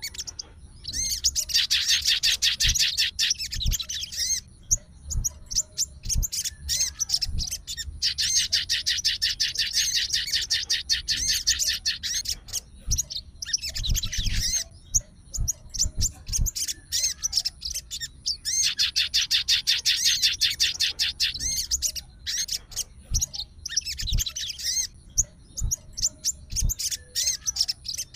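Sogon songbird singing: three long bouts of rapid, dense trilling a few seconds each, with short scattered chirps in between.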